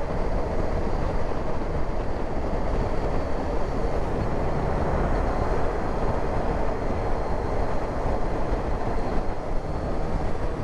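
Motorcycle riding at a steady speed: a steady rush of wind and road noise with the engine running underneath.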